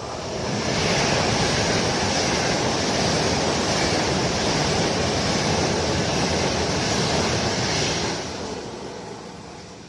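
Frecciabianca electric passenger train passing through a station at speed without stopping: a loud, even rush of wheels on rail and displaced air. It swells within the first second, holds for about seven seconds as the coaches go by, then fades near the end.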